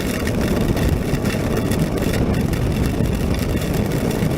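Honda NC700X motorcycle riding at highway speed on a wet road in rain: a steady rush of wind and tyre noise over the engine's low drone.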